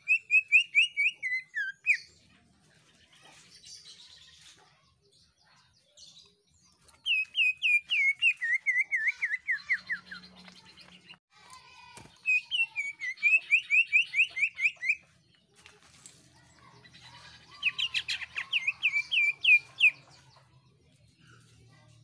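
Male green leafbird (cucak ijo) giving its loud, piercing song in four bursts. Each burst is a 2–3 s string of rapid, sharp repeated notes, several a second. Some bursts fall in pitch toward their end, and the last one is the loudest.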